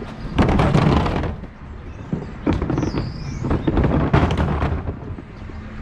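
Green wheelie bin of mixed paper and cardboard being tipped by the refuse truck's bin lift, the load crashing into the hopper in three loud, rattling rushes.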